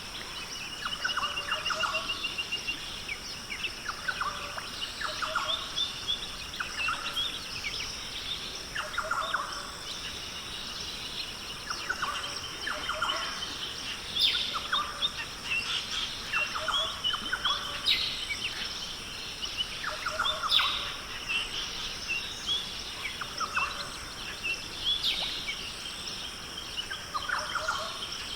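Birds calling over and over, a short call every two to three seconds, with a brief rapid trill about a second in, over a steady high-pitched drone.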